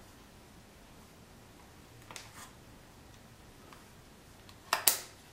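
Quiet handling of a compact superzoom camera: faint rustling about two seconds in, then two sharp clicks close together near the end.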